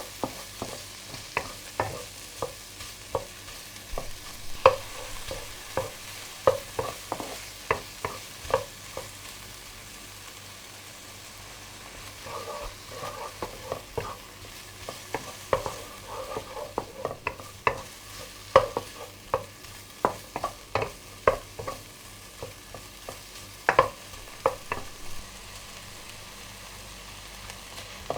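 Food sizzling in an oiled frying pan while a cooking utensil stirs it, clicking and tapping against the pan at irregular moments. The taps pause for a few seconds about ten seconds in and again near the end.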